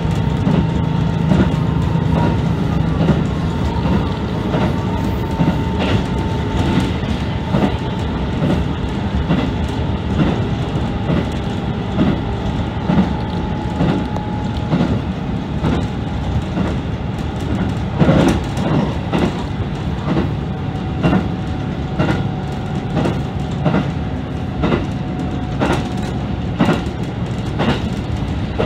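KiHa 75 diesel railcar running at speed, heard from inside at the front: a steady engine and transmission drone with a faint whine that slowly falls in pitch, and wheels clicking rhythmically over rail joints.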